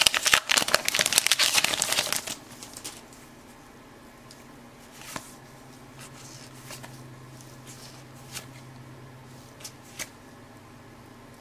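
Baseball card pack wrapper crinkling and cards rustling in the hands for about two seconds, then a few soft clicks as trading cards are handled and laid down.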